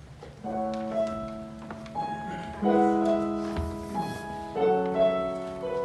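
Piano playing the introduction to a sacred solo song. Chords start about half a second in and change about every two seconds, each fading after it is struck, with a melody line above.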